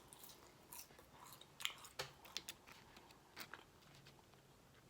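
A person chewing food close to the microphone: faint, scattered small crunches and wet mouth clicks, a few louder ones about one and a half to two and a half seconds in.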